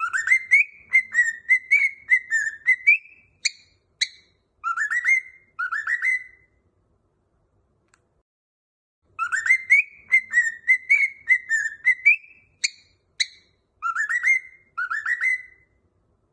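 Cockatiel whistling a learned tune: a melodic phrase of gliding whistled notes, a pause of about three seconds, then the same phrase again.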